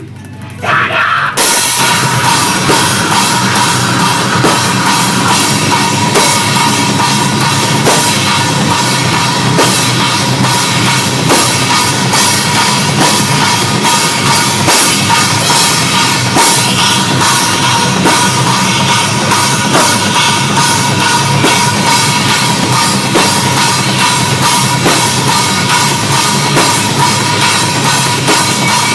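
Metalcore band playing live: a heavy drum kit with fast bass drum and cymbals under distorted guitars, loud and clipped in a low-quality recording. The full band comes in about a second and a half in.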